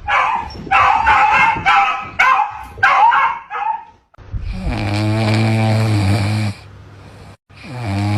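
A dog yipping and howling in a quick string of high-pitched calls. After a brief break come two long, steady rasping sounds of about two seconds each.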